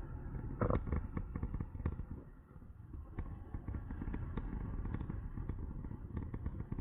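Wind buffeting the microphone of a moving e-bike rider: a steady low rumble broken by many irregular sharp pops. The rumble dips briefly a little over two seconds in.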